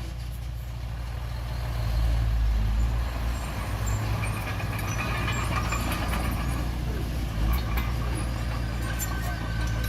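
Bulldozer's diesel engine running steadily, with short high metallic squeaks and clicks over it.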